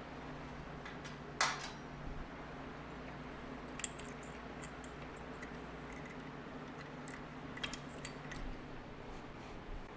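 Scattered clicks and clinks of tools and small metal parts being handled during motorcycle disassembly, with one sharper knock about a second and a half in, over a steady low electrical hum.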